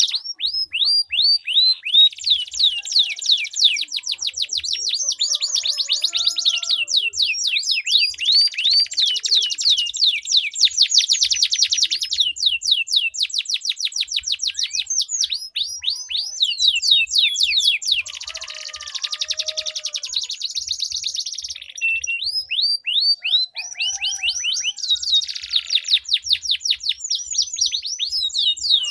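Domestic canaries singing long rolling trills: fast runs of repeated, high, downward-sweeping notes, changing phrase every few seconds.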